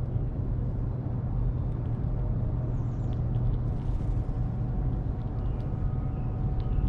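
Steady low outdoor rumble with faint, short high bird chirps now and then. A faint steady hum joins about five seconds in.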